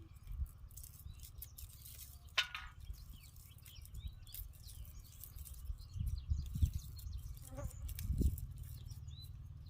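Outdoor ambience of short bird chirps and a faint steady insect buzz over a low rumble, with one louder call about two seconds in.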